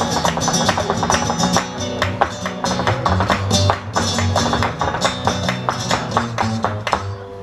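Flamenco music: acoustic guitar strumming in a steady, driving rhythm with sharp percussive strokes, an instrumental passage between sung verses.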